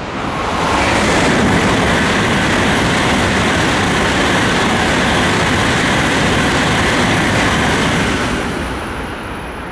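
N700-series Shinkansen passing through the station at high speed without stopping: a loud, even rushing noise that builds within the first second, holds steady for about seven seconds, and fades near the end as the train clears.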